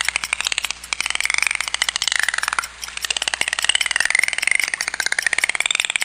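Dolphin whistles gliding up and down in pitch over a rapid, continuous train of clicks.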